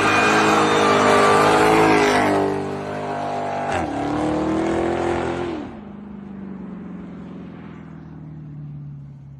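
A sports car engine running hard at high revs, the pitch climbing again after a brief break about four seconds in, then dropping to a quieter, slowly falling note as the revs come off.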